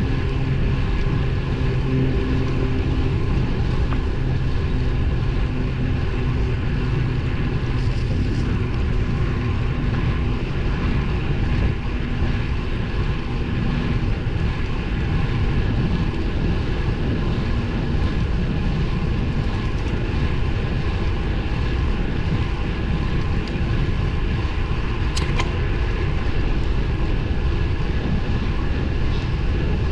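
Steady rush of wind and road noise while riding a road bike on 23 mm tyres. A low hum fades out around the middle, and there is a single sharp click near the end.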